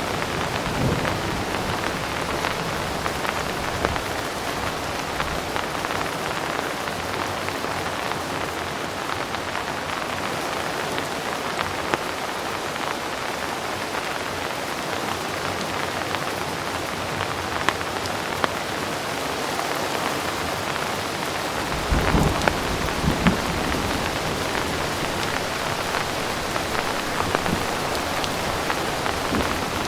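Heavy rain falling steadily, with scattered sharp drop ticks. A low rumble of distant thunder comes in about two-thirds of the way through.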